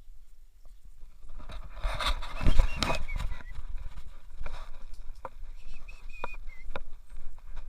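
Dogs moving about, with scuffling and scattered sharp clicks. A short, high, wavering whine comes twice: a couple of seconds in, and again near the six-second mark.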